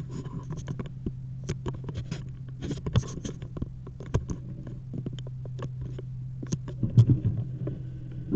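A steady low hum under many irregular small clicks and knocks, with a louder knock about seven seconds in.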